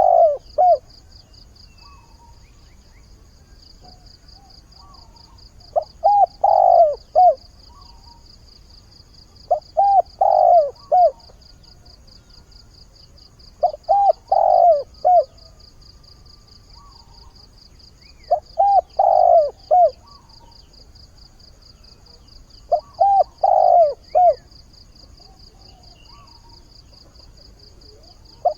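Decoy male spotted dove cooing its mate-calling song: about six short phrases of several coos each, one every four to five seconds.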